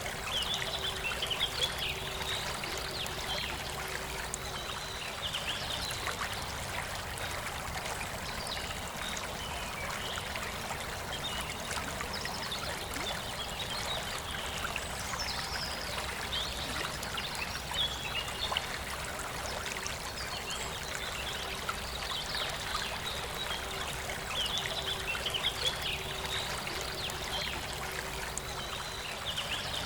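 Forest river flowing steadily, with birds chirping and warbling over it.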